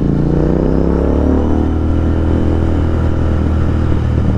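Royal Enfield Continental GT 650's parallel-twin engine running loud through an aftermarket Thrive exhaust. The revs fall over the first second and a half as the throttle is eased, then the engine runs steadily at lower revs.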